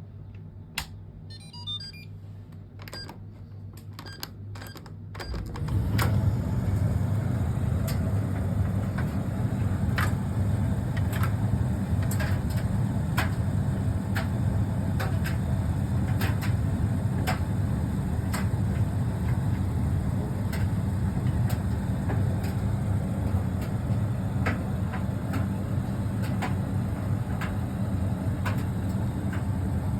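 Fisher & Paykel ED56NZ clothes dryer starting up about five seconds in: its motor and turning drum set up a steady low rumble with light ticks scattered through it. A few small clicks come before it starts.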